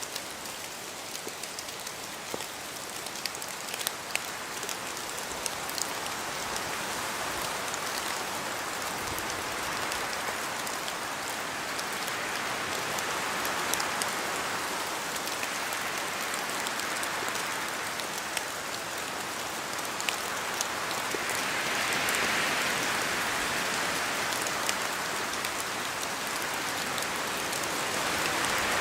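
Steady rain in a forest, a continuous hiss scattered with sharp ticks of drops falling from the trees. The wash swells and eases several times as gusts of wind move through the trees, most strongly around two-thirds of the way in and again at the end.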